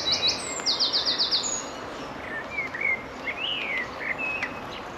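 Small songbird singing: a quick run of about eight high, repeated chirps in the first second and a half, then a few lower whistled notes that rise and fall, over a steady outdoor background noise.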